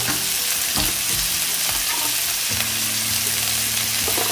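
Chopped tomatoes sizzling steadily in hot oil in a frying pan, with a low steady hum setting in about halfway through.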